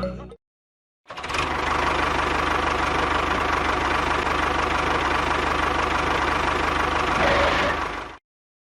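A motor running steadily with a fast, even chatter; it starts abruptly about a second in, swells slightly near the end and cuts off suddenly.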